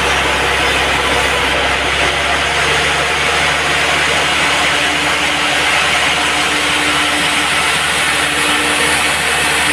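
Band sawmill running steadily as it saws a log, a constant machine noise over a low hum.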